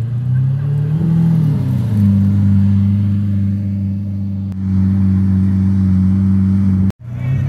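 Lamborghini Murciélago Roadster's V12 running at low revs as the car moves slowly, with a brief rise and fall in revs about a second in, then steady. The sound cuts out abruptly for a moment near the end.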